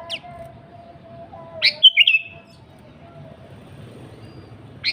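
Sooty-headed bulbul (kutilang) calling: a brief falling whistle at the start, then a loud, short phrase of quick sweeping notes about two seconds in. The same phrase starts again right at the end.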